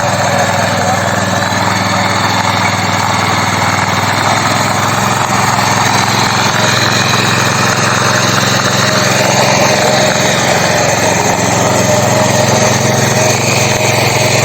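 S Raja mini power tiller's 7.75 HP engine running loudly and steadily.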